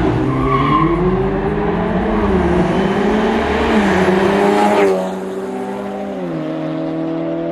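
Two cars, a BMW 3 Series saloon and a VW Golf 7, launching in a street drag race: engines revving hard and accelerating past, the engine notes climbing with short dips. About five seconds in the sound drops sharply as they go by, leaving a steadier engine drone.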